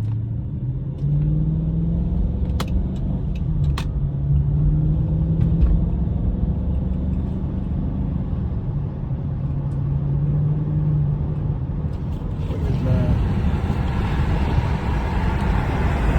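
Dodge R/T's 5.7-litre HEMI V8 pulling the car along at cruise, heard from inside the cabin as a steady low drone that drifts slightly in pitch, with two light clicks a few seconds in. Near the end a louder rushing road and wind noise comes up over it.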